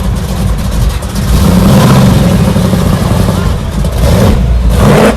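Loud car engine revving with a heavy low rumble. It swells about a second and a half in, then climbs in pitch near the end before cutting off sharply.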